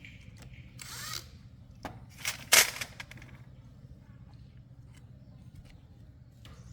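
Workshop tool noise: two short hissing bursts, the second about two and a half seconds in and louder, with scattered clicks over a steady low hum.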